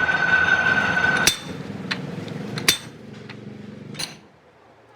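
A steady whining, hissing workshop power tool cuts off with a sharp metallic strike about a second in. Three more hammer blows on metal follow, roughly a second apart, each with a short ring.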